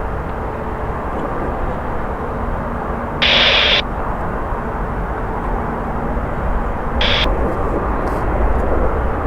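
Steady rumble and hiss of jet airliner engines at the airport. It is broken twice by short bursts of airband radio static, a half-second one about three seconds in and a briefer one about seven seconds in.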